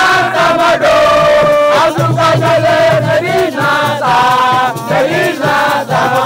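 A crowd of young supporters singing a chant together in unison, loud and without a break.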